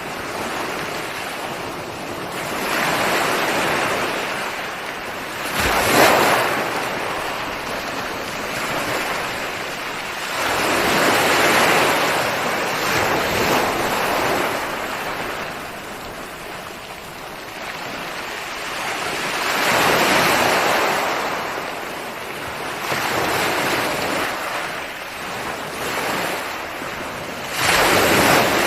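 Ocean waves breaking on a shore, a steady wash of surf that swells and ebbs every few seconds, with a sharper, louder break about six seconds in and another near the end.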